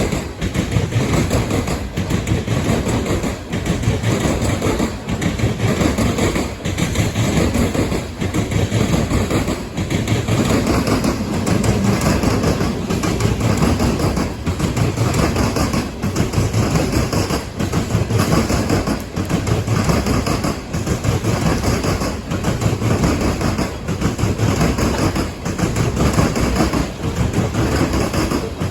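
Loaded Norfolk Southern coal train rolling past: steel wheels rumbling and clattering on the rails, with a regular beat about every second and a half as the cars go by.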